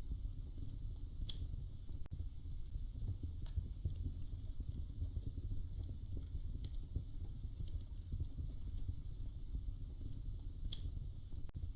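Wood fire burning in a fireplace: a steady low rumble of the flames with sharp crackles and pops every second or two.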